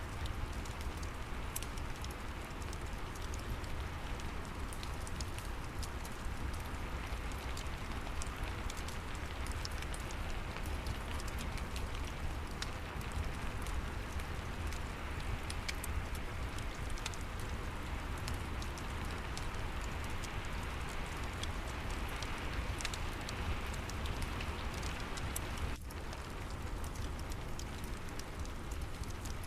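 Steady rain with a fireplace crackling over it, small pops scattered irregularly throughout.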